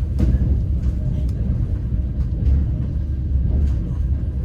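Moving passenger train heard from inside the carriage: a steady low rumble of the running wheels and car body, with a few faint clicks of the wheels over rail joints.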